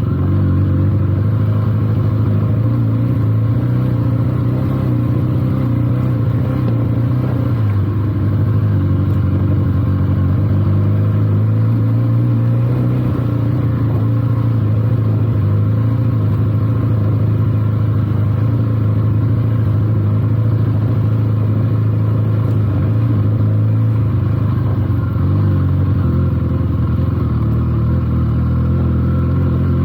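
Benelli TNT 300's parallel-twin engine running steadily at low revs while the motorcycle is ridden, its note shifting briefly about eight seconds in.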